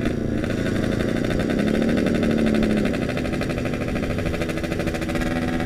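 Yamaha RX-King's two-stroke single-cylinder engine running under way, a rapid pulsing exhaust beat that briefly rises and falls in pitch about two seconds in.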